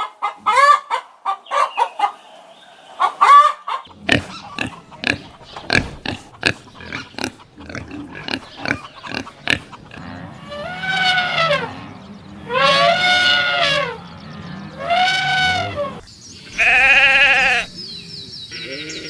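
A string of farm animal calls: hens clucking, then a quick run of short grunts, then three long calls about two seconds apart and a louder quavering bleat near the end, typical of goats.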